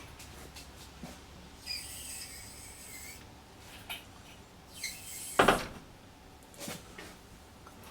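Engine being lowered into a truck's engine bay: metal rubbing and a squeak, then several knocks, the loudest about five and a half seconds in.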